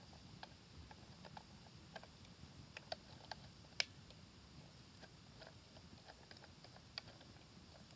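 Wood fire crackling: irregular sharp snaps and pops at uneven intervals, with the loudest snap a little before halfway.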